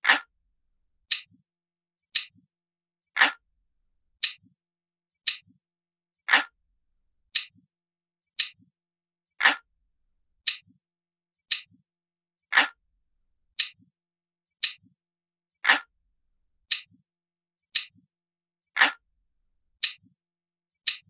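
Glass-like clock ticking: crisp single ticks about once a second, every third tick louder and fuller.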